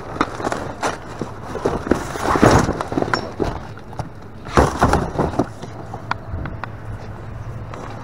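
Rummaging through discarded packaged goods in a dumpster: rustling, knocks and clattering as items are moved. The loudest bursts come about two and a half seconds in and again around five seconds in.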